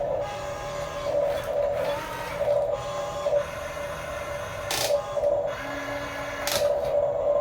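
Small electric gear motors of a radio-controlled toy construction vehicle whirring, rising and easing in short pulses as the controls are worked, with two sharp clicks in the second half.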